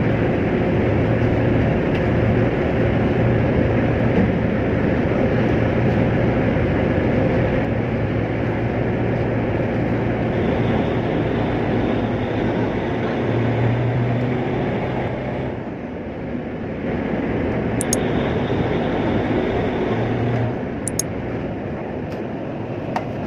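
Tugboat's machinery running steadily with a deep hum. The level dips briefly about fifteen seconds in, then the sound settles lower about five seconds later, with a few faint sharp clicks near the end.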